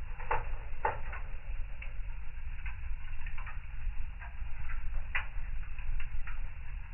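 Fire burning in a fireplace: a steady low rumble with irregular crackles and pops, two sharper pops within the first second.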